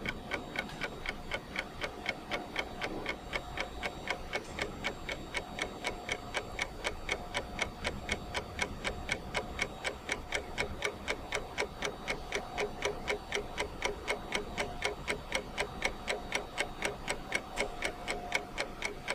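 Steady, even ticking, about four ticks a second, like a clock, over a faint steady tone.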